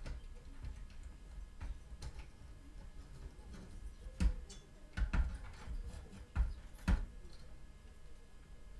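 Light clicks and knocks of computer parts and tools being handled while an all-in-one PC is taken apart, with a cluster of about five sharper knocks in the middle.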